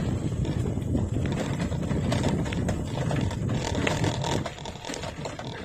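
Wind rumbling on the microphone of a moving bicycle, with quick light clicking and rattling over it. The rattle is the headlamp rattle common on these 1984 Raleigh Superbe lamps. The rumble eases a little near the end.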